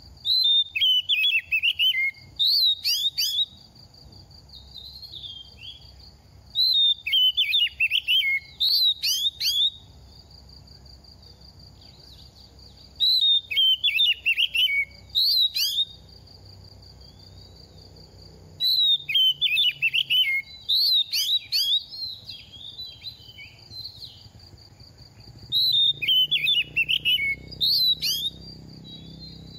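Oriental magpie-robin singing in five loud phrases of about three seconds each, roughly every six seconds: fast, varied whistled and warbled notes.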